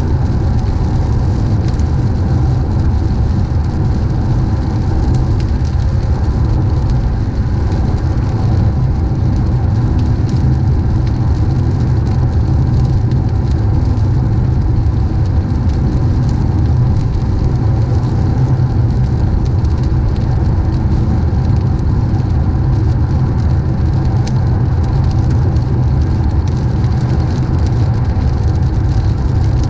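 Car driving in the rain: a steady low rumble of engine and road, with the hiss of rain and wet tyres over it.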